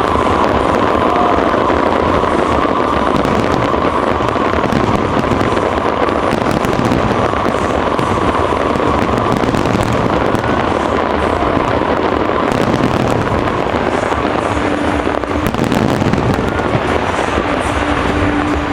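Fireworks barrage: a dense, continuous crackling of many small bursts, loud and steady.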